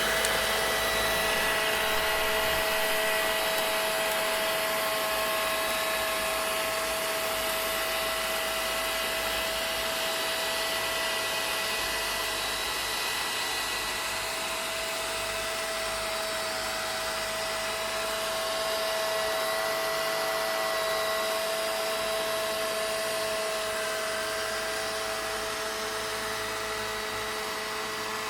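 Vacuum cleaner running steadily, a constant motor whine over a wide rushing hiss.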